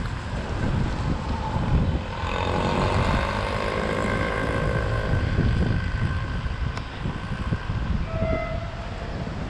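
Train at a station under wind buffeting the microphone, with gusty rumble throughout. About two seconds in, a held sound of several tones at once rises above it for some three seconds, and a short single tone sounds near the end.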